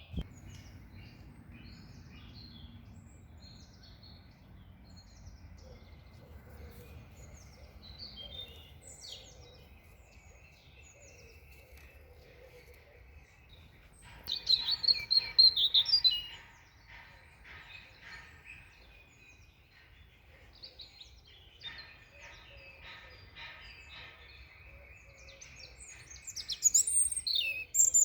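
Songbirds chirping and singing throughout, with two loud bursts of song, one about halfway and one near the end, over a faint steady high trill.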